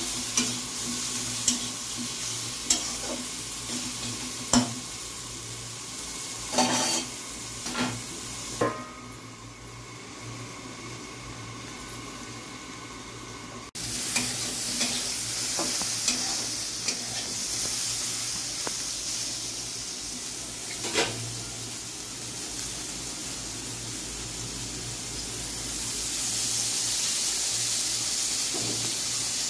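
Brinjal cubes sizzling in oil in a metal kadai while a metal spatula stirs them, scraping and clinking against the pan. The sizzle drops lower for about five seconds before a third of the way in, then comes back abruptly.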